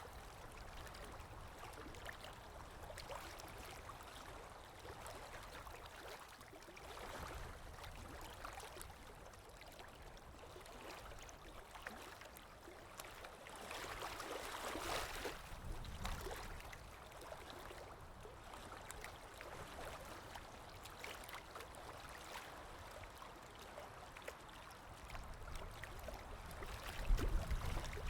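Water lapping with wind blowing, a continuous ambience. The wind swells about halfway through, and a low gusting rumble builds near the end.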